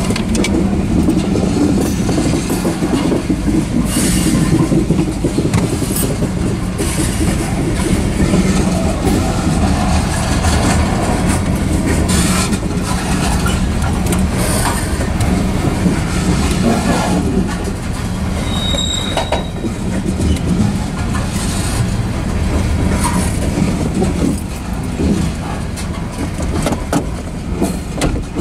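Covered hopper cars of a freight grain train rolling past: a steady rumble of steel wheels on rail with repeated clicks and clanks. A brief high wheel squeal comes about two-thirds of the way through.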